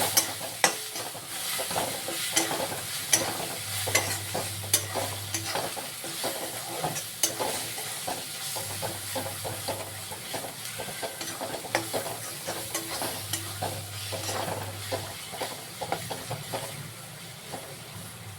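A spatula stirring and scraping food in a pan of sizzling oil, with frequent irregular clicks as it knocks against the pan.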